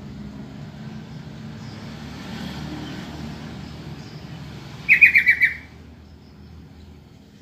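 A trucukan (yellow-vented bulbul) gives a quick chattering call of about six rapid notes in under a second, about five seconds in. A steady low hum runs beneath it.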